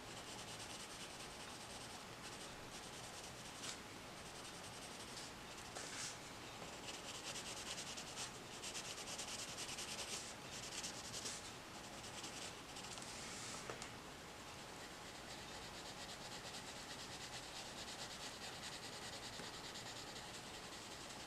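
Coloured pencil rubbing on paper in quick back-and-forth shading strokes, busiest and loudest through the middle of the stretch.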